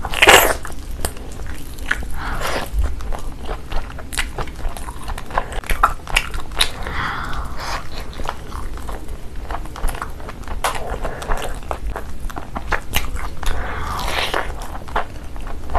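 Mukbang eating sounds: a loud bite into a piece of green tandoori chicken just after the start, then continuous wet chewing and mouth clicks. Near the end a handful of rice goes into the mouth.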